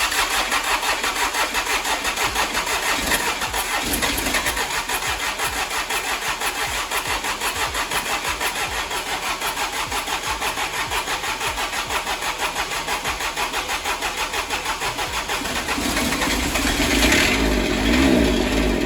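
The engine of a John Deere 455 lawn tractor turning over on its starter, pulsing evenly at about five beats a second. About sixteen seconds in the sound deepens and gets louder.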